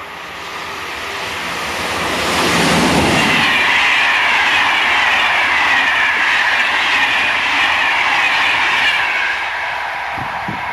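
Passenger train of Corail coaches passing at speed. The rushing wheel-and-rail noise builds over about two seconds, stays loud while the coaches go by, and eases off near the end.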